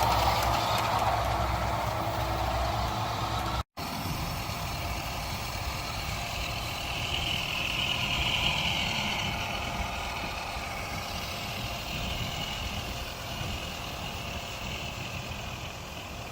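RC Adventures Atlas 6x6 radio-controlled truck running, with a steady whine that swells around the middle. The sound drops out briefly a few seconds in.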